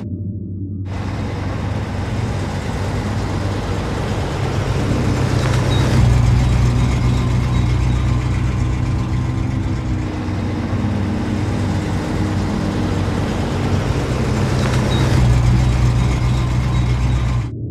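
Car engine sound effect: a steady low engine hum with road noise, swelling about six seconds in and again near the end.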